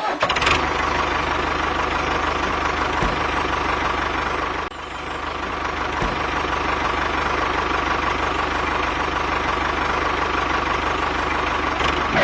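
A small engine running steadily. Its level drops briefly a little before halfway, then comes back up.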